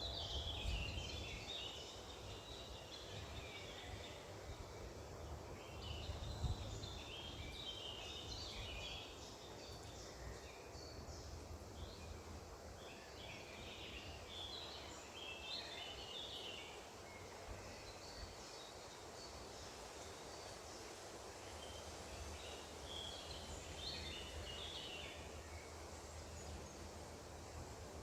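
Small birds chirping and twittering in bursts of quick high notes, about five bursts with pauses between, over a steady low background rumble.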